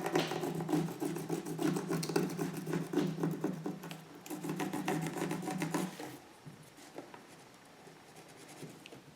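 A small Stabilo pencil scratching rapidly back and forth on paper, tracing the edge of a cutout. The strokes stop about six seconds in, and only faint scratches remain.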